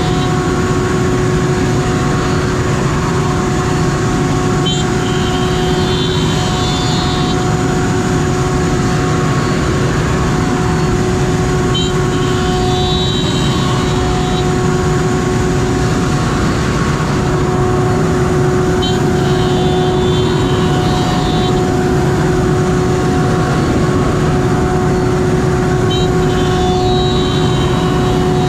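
CNC router milling beech boards: a steady loud running noise with a constant whine from the spindle. About every seven seconds a click is followed by a high-pitched burst lasting roughly two seconds.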